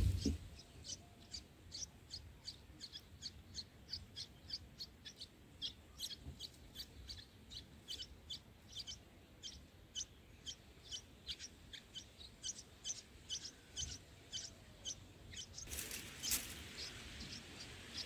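Red-whiskered bulbul nestlings giving thin, high begging chirps, repeated steadily about two to three times a second. A brief rustling burst comes about two seconds before the end.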